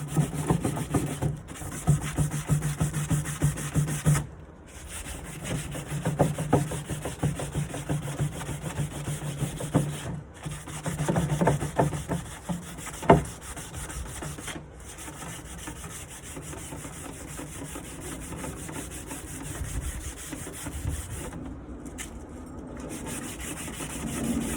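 Sandpaper rubbed by hand over a wooden nightstand in repeated back-and-forth strokes. A single knock comes about 13 seconds in, and the rubbing is lighter and quieter after that.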